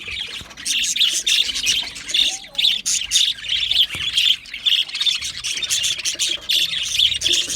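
A flock of budgerigars chirping and chattering together, a dense, continuous overlapping mix of short high calls with occasional squawks.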